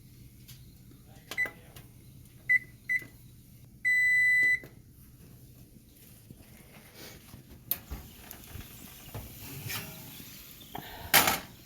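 Electronic oven control panel beeping: three short button-press beeps, then one longer beep about four seconds in. A click follows, and a short burst of noise comes near the end.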